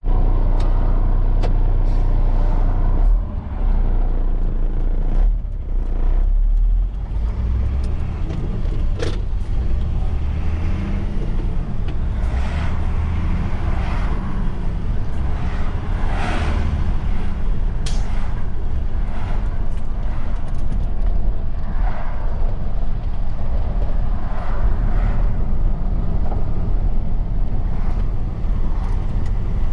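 A truck driving on the road: its engine and tyres make a steady low rumble, with a few brief sharp clicks along the way.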